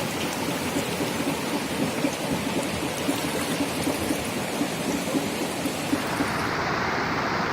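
Steady rushing, hissing noise of water, with a brighter hiss setting in about six seconds in.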